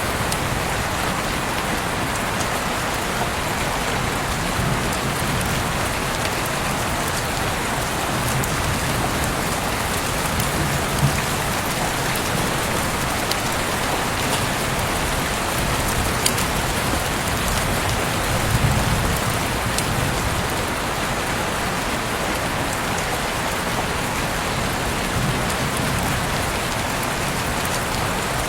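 Heavy rain falling steadily outside an open window, a dense even hiss with a few sharper drop impacts now and then.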